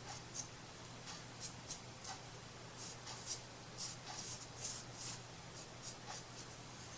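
Faint, irregular short scratching strokes of hand craft work on paper or wood, like a pencil or tool drawn across a surface, over a faint steady low hum.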